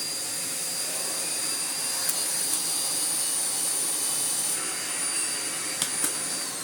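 Miele Blizzard CX1 bagless vacuum cleaner running on maximum, a steady rushing noise with a high whine, while its turbo brush head barely turns, which the owner takes for a stiff, clogged head. A few light clicks, and near the end the whine begins to fall as the motor slows.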